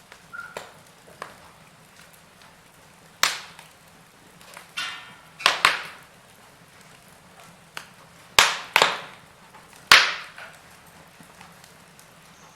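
Burning logs in a fireplace crackling: irregular sharp pops and snaps, about ten in all, with a few loud ones around the middle and near the end, over a faint steady low hum.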